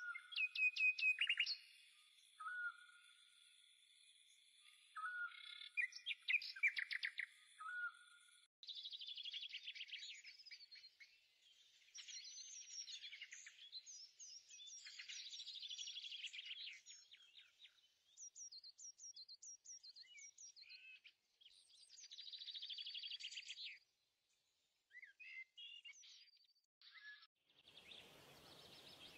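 Birds chirping and singing: quick repeated chirps and trills, several overlapping. About a second before the end, a steady rushing noise comes in.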